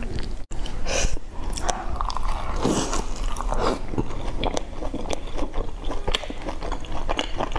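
Close-miked chewing of soft food, with many short wet mouth clicks and smacks and two short breathy rushes, about one and three seconds in.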